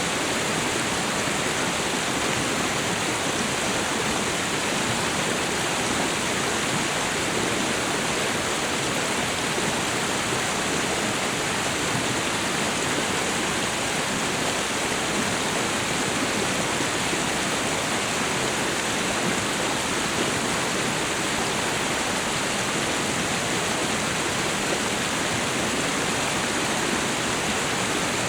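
Waterfall and river water rushing steadily, an even unbroken wash of noise.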